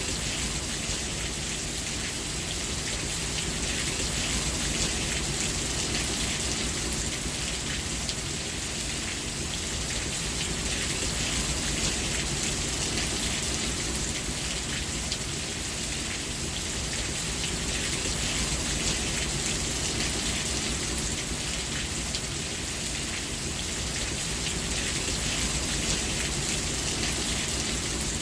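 Steady rain falling, a dense patter of drops on surfaces that swells and eases slightly every few seconds.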